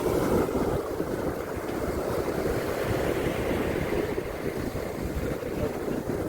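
Ocean surf washing onto a beach: a steady, low rush of waves that swells and eases gently.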